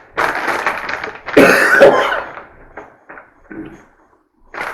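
A person eating spicy buffalo wings close to the microphone: harsh mouth sounds, then a loud cough about a second and a half in, followed by a few small smacks.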